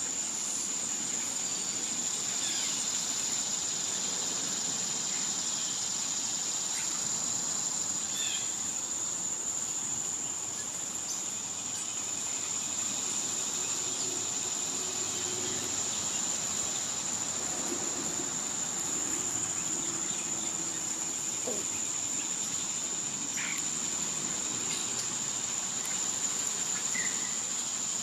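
Summer insects droning: one steady, unbroken high-pitched whine that never lets up. A few brief bird chirps are scattered through it.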